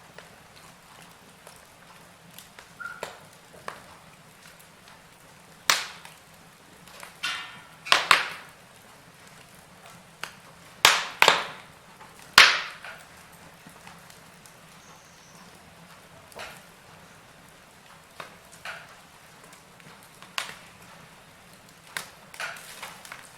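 Wood fire in a fireplace crackling, with irregular sharp pops and snaps; the loudest snaps come in a cluster about halfway through.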